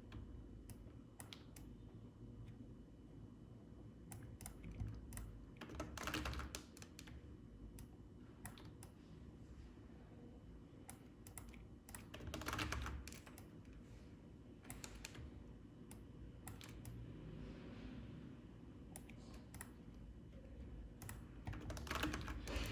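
Faint computer keyboard clicking: scattered single key presses, with short runs of quick presses about six, twelve and twenty-two seconds in.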